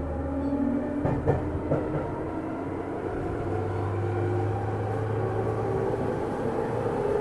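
Interior running sound of a JR East 205 series electric train from a motor car: the hum of its externally fanned traction motors rising slowly in pitch as it gathers speed, with a couple of clicks about a second in and steady wheel-on-rail rumble.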